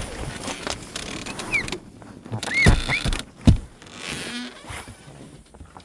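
Footsteps through snow, with a few short high squeaks and two heavy thumps a little under a second apart about halfway through.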